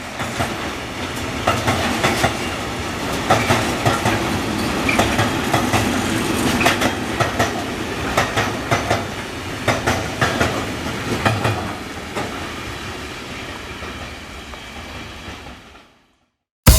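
Freight train wagons rolling past, wheels clicking over the rail joints. The sound fades in the last few seconds and then cuts off.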